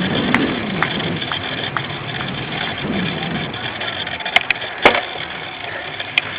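Steady rushing of wind and tyres with scattered sharp clicks and knocks from a cyclocross bike ridden over rough ground, the loudest knock about five seconds in.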